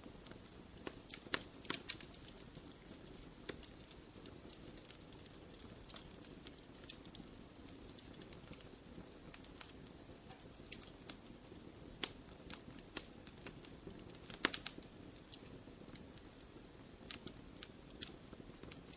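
Wood fire crackling in a fireplace: irregular sharp pops and snaps over a low, steady hiss of burning, with a quick cluster of louder pops about three quarters of the way through.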